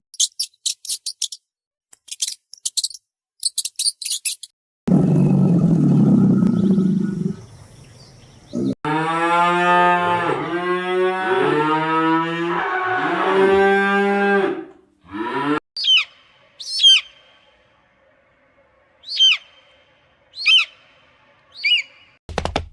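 A run of separate animal sounds. It opens with clusters of quick high chirps and then a rough, noisy low sound. The loudest part is a cow mooing in one long call of about six seconds that wavers in pitch, followed by a handful of short, falling bird chirps.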